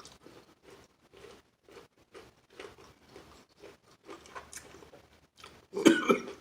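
Close-up chewing and crunching of crispy fried chicken wings, about two to three chews a second. Near the end comes a louder burst with a voice-like pitch to it.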